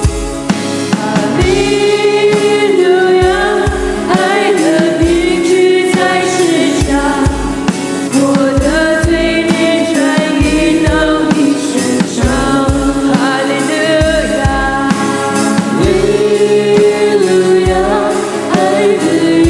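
Christian worship song: voices singing a melody over band accompaniment with a regular low drum beat.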